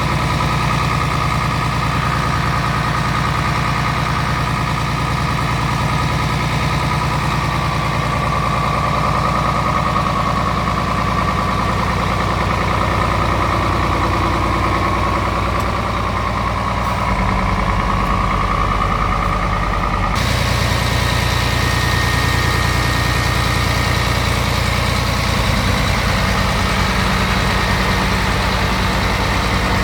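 Scania R tractor unit's diesel engine idling steadily, its tone shifting slightly about two-thirds of the way through.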